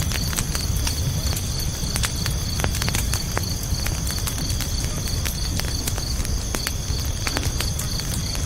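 Campfire crackling with frequent irregular sharp pops over a low steady rumble of burning logs. Crickets chirp in a fast, even pulse.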